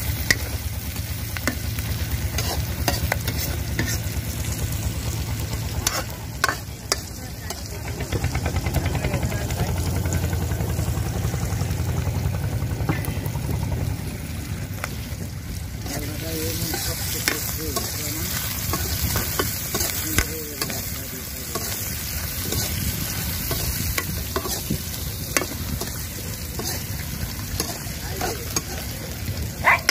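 Food frying and sizzling in a cooking pot while it is stirred, the spoon scraping and clicking against the pot now and then, over a steady low rumble.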